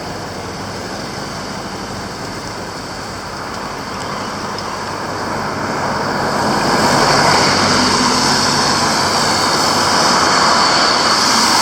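Road traffic on a wet road: a motor vehicle's engine and tyre noise, growing louder about halfway through as it comes closer, then holding steady.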